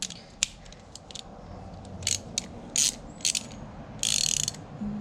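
Socket ratchet wrench with a 17 mm socket clicking in several short runs, the longest near the end, as it is set on a motorcycle oil drain plug.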